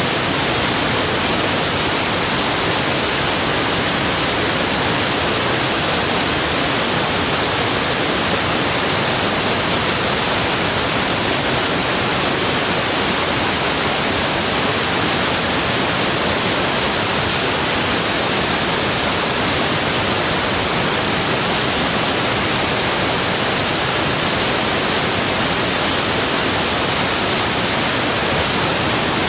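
Steady rushing of falling and flowing water: an even, unbroken hiss with no changes.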